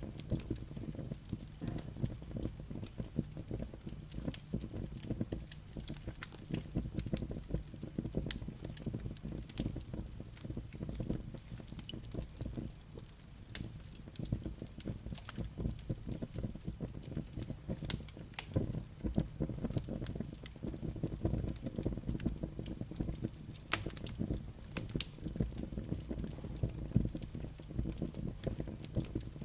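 Wood fire burning in a fireplace: a low, steady rumble of flames with frequent sharp crackles and pops from the burning logs and embers.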